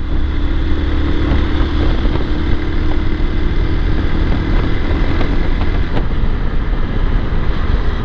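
Motorcycle riding at road speed: a steady engine drone under low wind rumble on the microphone.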